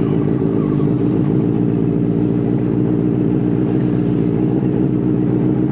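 Benelli TNT 600 inline-four engine running steadily at low revs under way through its dual exhaust, with no rise or fall in pitch.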